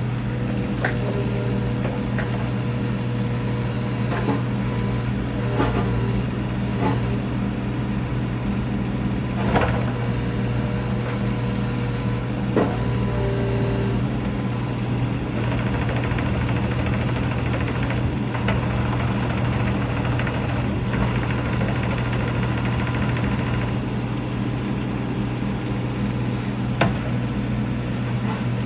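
The three-cylinder Kubota diesel engine of a Kubota U27-4 mini excavator, running steadily at an even speed. A few sharp clicks or knocks come over it.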